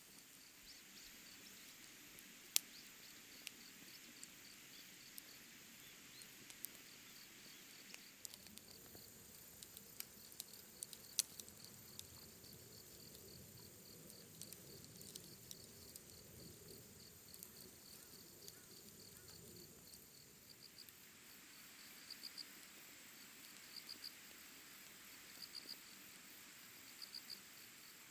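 Crickets chirping faintly in a steady rapid train of high pulses, falling into short clusters in the last several seconds, with scattered sharp clicks and pops.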